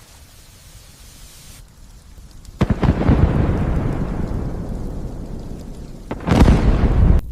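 Steady rain, then a sudden clap of thunder about two and a half seconds in that rumbles and slowly fades, and a second loud clap near the end that cuts off abruptly.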